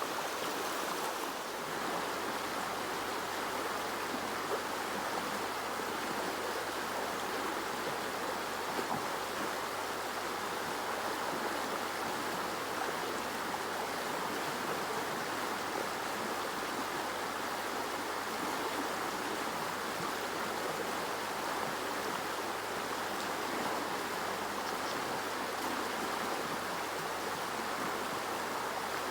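River water rushing over rocks, a steady even sound.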